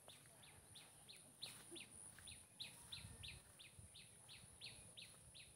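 A bird calling faintly in the background: a steady run of short, falling chirps, about three a second.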